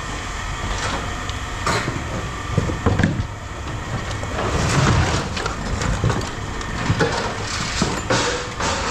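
Pieces of scrap metal being handled and dropped, giving irregular knocks and clatter over a steady low rumble.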